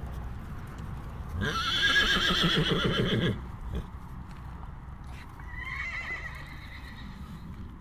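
A horse neighing: a loud whinny with a quavering pitch about a second and a half in, lasting nearly two seconds, then a fainter, shorter call a few seconds later, over a low steady rumble.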